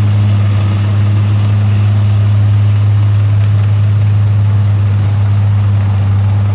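Dump truck's diesel engine running steadily, a deep even hum that does not change.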